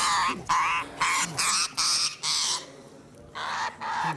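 A bird squawking in a rapid series of short, harsh calls, stopping for a moment past the middle and then starting again.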